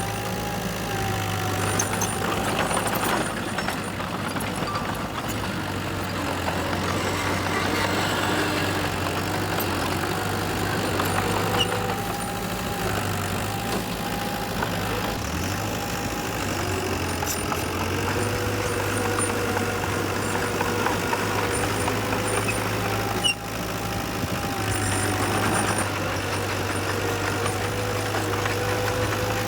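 Heavy earthmoving machinery engines running steadily, with a brief drop in sound about three-quarters of the way through.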